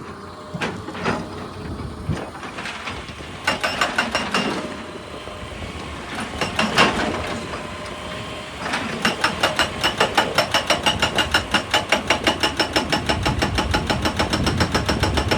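Excavator-mounted hydraulic breaker hammering rock, with the excavator's engine running underneath. A few single knocks come first, then a short run of rapid blows about three and a half seconds in, and from about nine seconds in a steady rapid hammering at roughly six blows a second.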